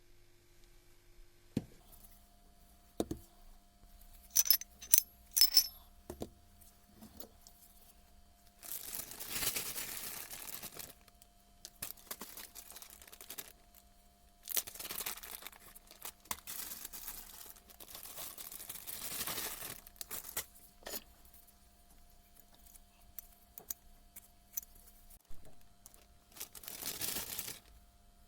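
Small metal parts clinking and clicking as they are handled, followed by three long stretches of hissing or rustling noise. A faint steady hum runs underneath.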